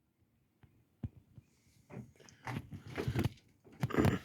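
Handling noise in a shed: a single click about a second in, then a run of light knocks, clatters and rustles as things are picked up and moved, loudest near the end.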